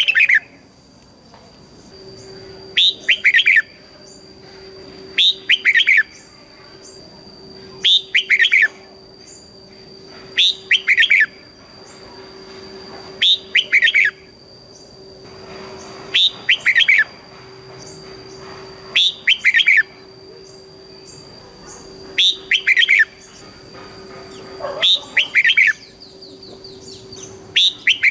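Red-whiskered bulbul singing short, loud, two-part song phrases in the doubled 'double' style, repeated about every two and a half seconds. A faint steady hum lies beneath.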